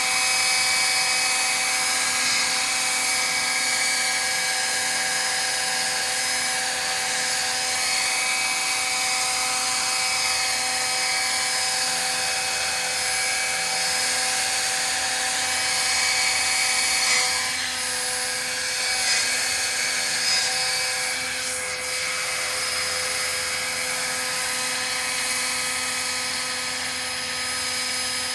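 Roban EC135 electric scale model helicopter in flight, its motor and drivetrain giving a steady high whine made of several fixed tones, with the main rotor held at a 1250 RPM head speed.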